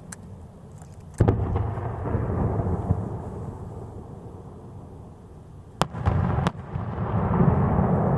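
Aerial fireworks shells bursting: a sharp bang about a second in, followed by a long rolling rumble, then two more sharp bangs in quick succession and a swelling rumble near the end.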